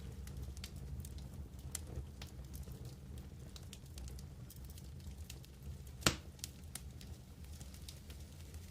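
Wood campfire burning, with scattered crackles and one loud pop about six seconds in, over a low steady rumble.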